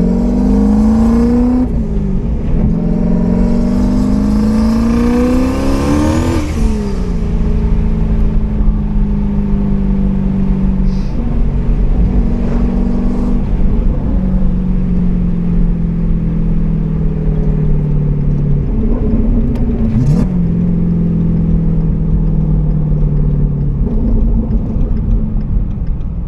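Turbocharged 5.0 Coyote V8 of a 2015 Mustang, heard from inside the cabin, pulling hard at full throttle. Its revs climb, drop sharply about two seconds in, then climb again in a long pull that breaks off around six seconds in. After that it settles into steadier running with a few brief dips in pitch.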